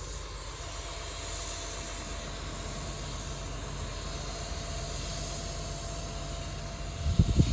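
Garbage truck engine running steadily, with a faint steady whine. About seven seconds in, loud irregular low rumbling begins.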